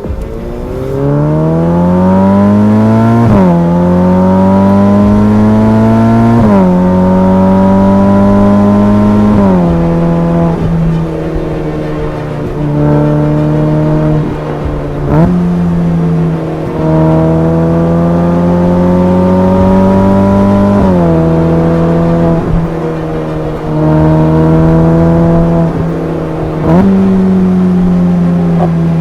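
Ferrari F8 Spider's twin-turbo V8 pulling through the gears. Its pitch climbs and then drops back at each of about six upshifts.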